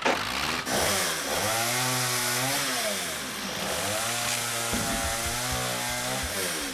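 Cartoon chainsaw running, its engine note rising and falling about three times as it revs up and down, then cutting off abruptly at the end.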